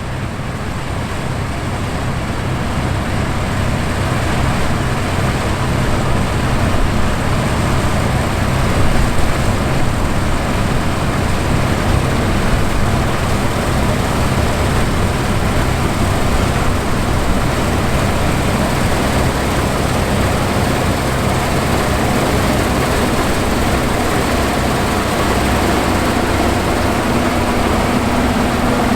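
Fendt IDEAL 7 combine harvester running steadily while harvesting wheat: a continuous engine and threshing drone with a low hum. It swells up over the first few seconds, and a steadier tone joins in near the end.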